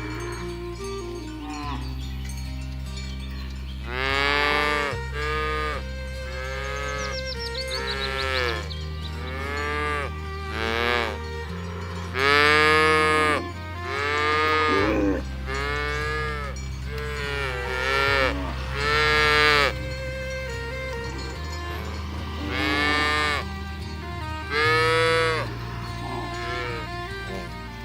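Cows mooing again and again, a dozen or so moos, some close together and overlapping, with the loudest near the middle. Soft background music with low held chords runs underneath.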